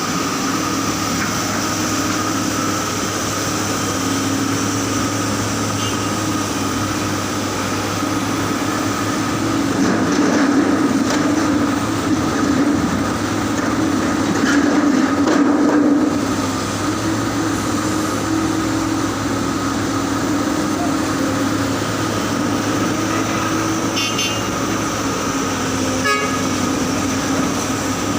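Heavy mining dump truck's diesel engine running steadily with a constant droning hum. It grows louder for several seconds around the middle.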